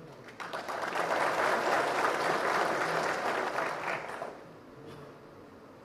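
An audience applauding, starting about half a second in and dying away after about four seconds.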